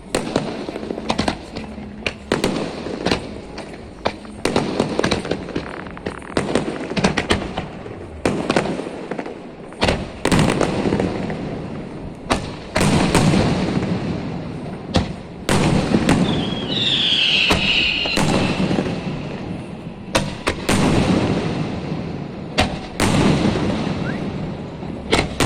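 Fireworks going off: a rapid series of sharp bangs mixed with stretches of dense crackling, and a short high whistle about two-thirds of the way through.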